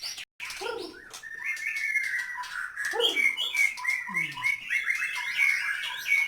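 Caged white-rumped shamas (murai batu) singing: a busy, unbroken string of short varied chirps and whistles that picks up about a second in.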